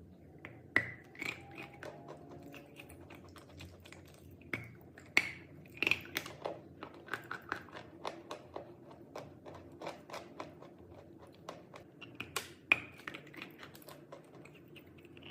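Chalk being bitten and chewed: a run of sharp, crisp crunches, a few much louder bites among many smaller crackles of chewing.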